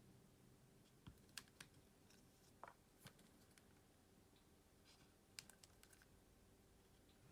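Faint, sparse small clicks and light scratches from small tools and plastic or metal phone parts being handled while a smartphone is disassembled.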